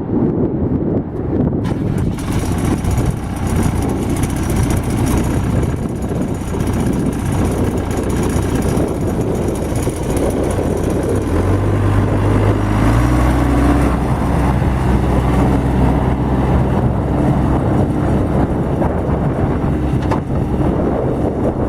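New Holland LB75 backhoe loader's diesel engine running steadily, then picking up speed about twelve seconds in and holding at the higher revs.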